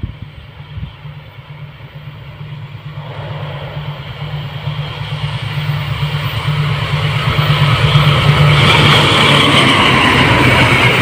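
Long passenger train hauled by a CC 206 diesel-electric locomotive approaching at speed: a steady low engine drone with the rumble of wheels on rail growing louder from about three seconds in, reaching full loudness near the end as the carriages pass close by.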